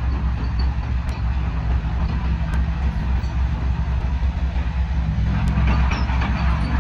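Heavy diesel engine of earthmoving machinery running steadily. About five seconds in it picks up, louder and harsher, as it comes under load.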